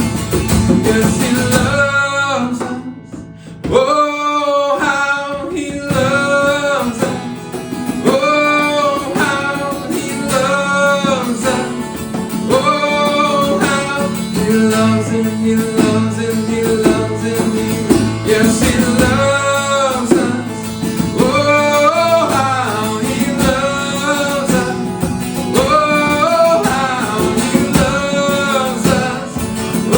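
Worship song with singing over acoustic guitar, in phrases that come about every two seconds; the music drops away briefly about three seconds in.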